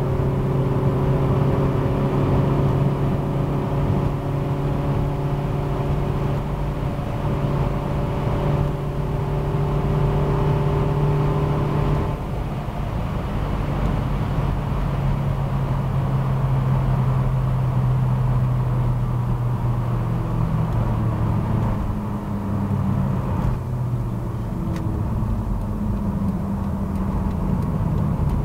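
Ford Escort Mk6 GTI's 2.0 Zetec inline four, fitted with individual throttle bodies and a decat stainless exhaust, running at steady cruising revs, heard from inside the cabin over road noise. The engine note shifts slightly about twelve seconds in. From about twenty seconds in it falls and wavers as the revs come down.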